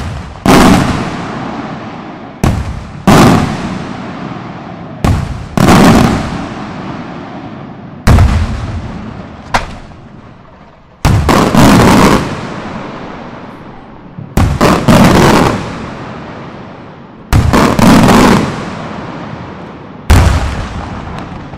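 Maltese beraq aerial firework shells and saluts bursting overhead: a string of loud sharp bangs every two to three seconds, some in quick pairs or triples, each followed by a long rolling echo.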